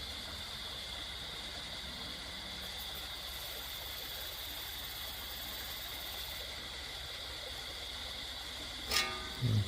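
Steady night-time background of insects, a constant high-pitched drone over an even hiss. Near the end comes a short sharp knock followed by a low thump.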